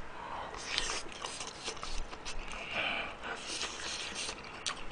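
Close-up chewing and lip-smacking of a man eating a mouthful of spicy stir-fried chicken, heard as a string of short irregular clicks.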